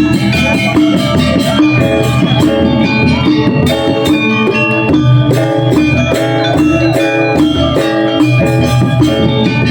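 Balinese gamelan gong ensemble playing a tabuh alus piece: many bronze metallophone notes struck in quick, even succession and left ringing over a sustained low gong tone.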